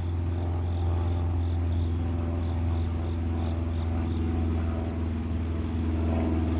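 An engine running at a steady idle, a low even hum, with the faint high chirping of an insect repeating a few times a second.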